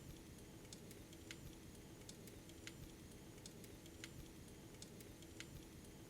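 Faint steady hum of a small electric motor, with a sharp click roughly every half second to a second, typical of a toy train running around its track.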